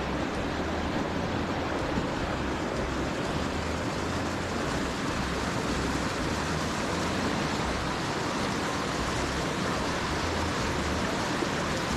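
Steady rushing of creek water at a culvert, with wind buffeting the microphone.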